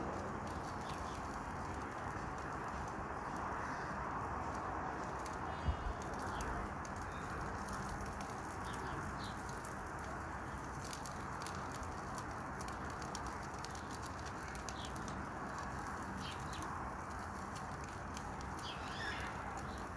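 Campfire crackling with irregular snaps over a steady outdoor rush. There is a single dull thump about six seconds in, and a bird calls briefly near the end.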